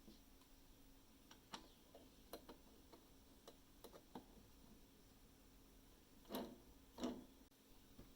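Scattered light clicks and ticks, then two louder knocks about six and seven seconds in, over a faint low hum.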